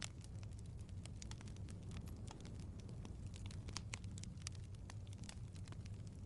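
Wood fire crackling: many irregular sharp pops and ticks over a low, steady rumble of the flames.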